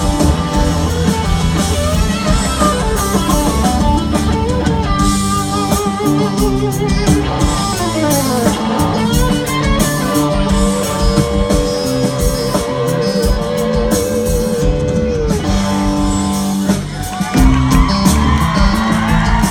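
Live rock band playing an instrumental break, with an electric guitar solo over bass and drums. The lead guitar bends notes, slides down about eight seconds in, then holds a long note with wide vibrato. Near the end there is a brief drop before the full band comes back in louder.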